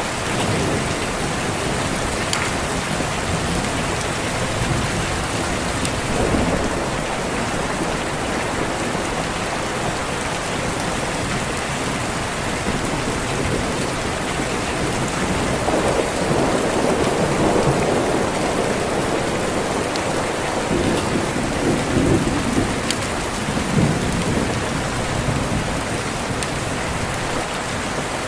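Steady rain with low rolling thunder, the rumble swelling about halfway through and again briefly near the end.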